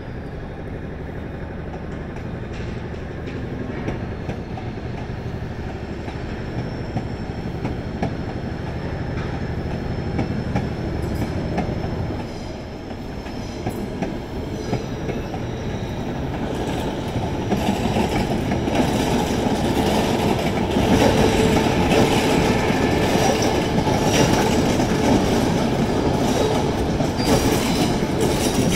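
A Queensland Rail train running on the tracks, growing louder over the second half, with wheels clacking and squealing on the rails. A steady low hum underneath stops about twelve seconds in.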